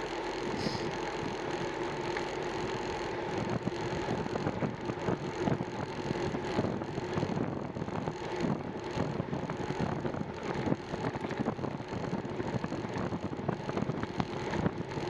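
Riding noise from a moving bicycle: a steady hum with wind buffeting the microphone and frequent small rattles and knocks.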